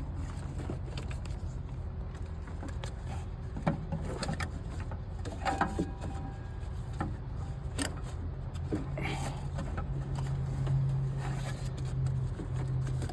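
Scattered light knocks and scrapes as a serpentine fan belt is worked off its pulleys and pushed aside on a Cummins ISX engine, over a steady low hum.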